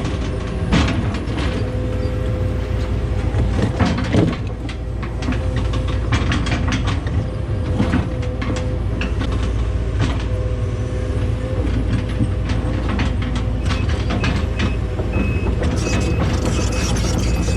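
Case 210 excavator's diesel engine running under load, with hydraulic whine and frequent clanks and knocks as it works. A repeating beep starts near the end.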